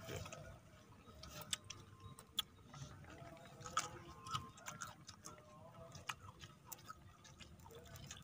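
Faint, irregular crisp clicks and crunches of several people chewing raw vegetables, with small mouth noises between bites.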